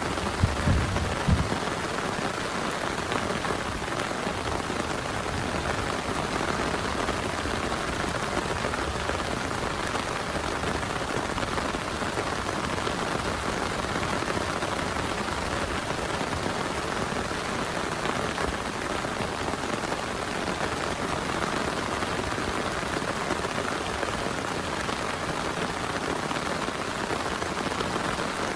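Heavy rain falling steadily, an even hiss of drops. A few short, low thuds come about a second in.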